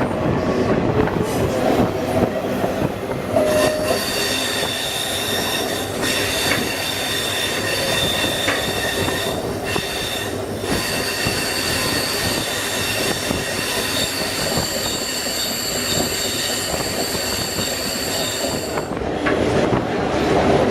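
Train wheels squealing against the rails on a curve, several high steady tones over the train's running noise, heard from aboard the train. The squeal sets in about four seconds in and dies away shortly before the end.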